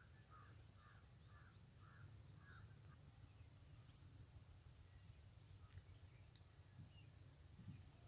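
Faint open-field ambience: a bird gives five short calls, about two a second, then a thin, steady high-pitched whine holds for several seconds over a low rumble.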